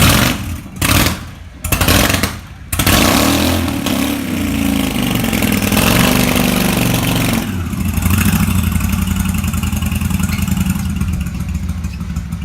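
Motorcycle engine being started: a few short bursts, then it catches about three seconds in, is revved up and down several times, and settles to a steady idle near the middle.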